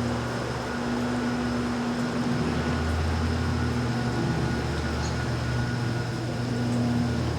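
Steady low mechanical hum with a constant droning tone, swelling a little in the middle.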